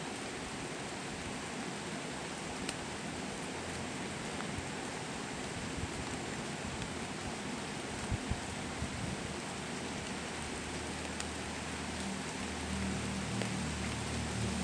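Heavy rain falling steadily, an even hiss. A low rumble builds up in roughly the last three seconds.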